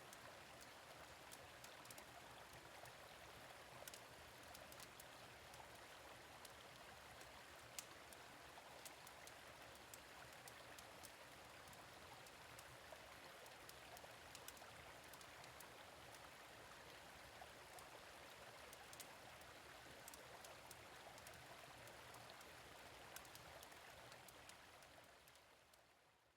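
Gentle stream flowing steadily, with scattered small crackles and pops from a fire pit over it; the whole sound fades out near the end.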